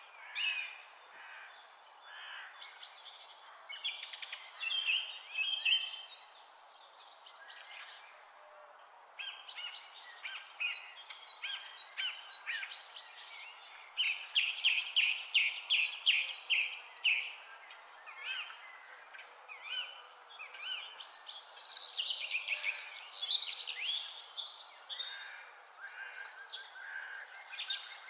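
Wild songbirds singing, several overlapping songs made of quick runs of rapidly repeated high notes and trills, over a steady background hiss.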